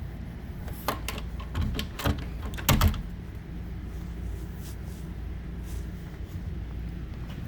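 A few sharp knocks and clatters, like things being handled or a cupboard door being moved, about one to three seconds in, the loudest near three seconds, over a steady low hum.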